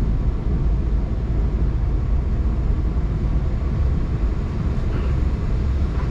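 Steady low rumble inside a moving passenger train's economy premium coach as it rolls along the track, with a couple of faint ticks about five seconds in.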